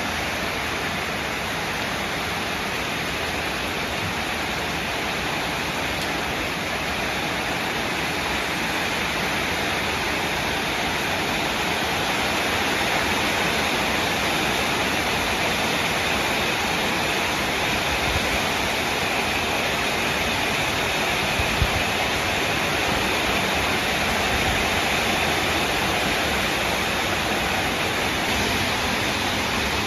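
Heavy rain pouring down steadily, a dense even hiss that grows slightly louder partway through, with one brief knock about twenty seconds in.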